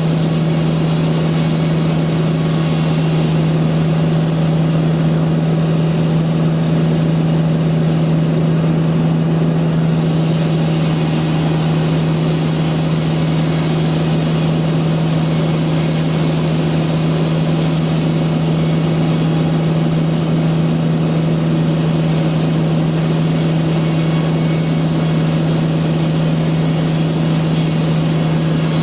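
Sawmill machinery running steadily: a constant low hum with an even hiss above it, with no change in pitch or level.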